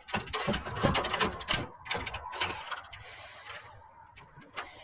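Rustling and scraping with a rapid run of small clicks over the first two seconds, then a short hiss about three seconds in and fainter rustling after it.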